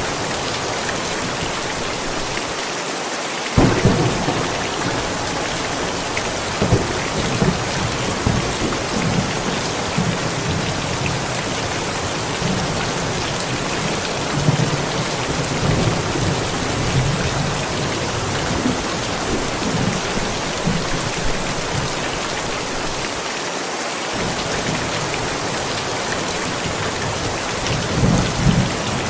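Thunderstorm: steady rain falling, with a sudden clap of thunder about three and a half seconds in that rolls on as a long rumble, and another rumble of thunder near the end.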